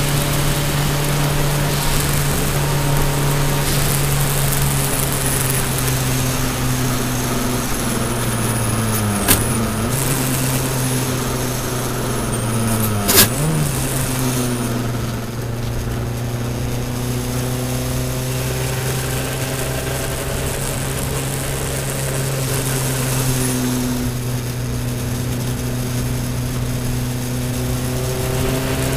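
Toyota Celica All-Trac's turbocharged four-cylinder engine running steadily under load, heard from inside the cabin, with a hiss of tyre and road noise that is stronger while the track is still wet in the first half. The engine note dips and comes back up twice, about nine and thirteen seconds in, each time with a sharp click.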